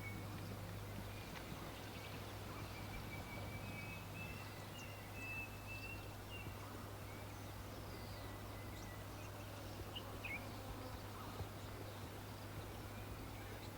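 Birds singing faintly: long thin high trills and a few short chirps, over a steady background hiss and a low hum.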